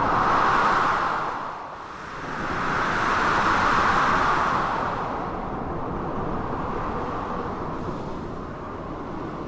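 Storm ambience of blizzard wind and crashing sea waves: a continuous rushing noise that swells twice in the first five seconds, then settles and slowly eases.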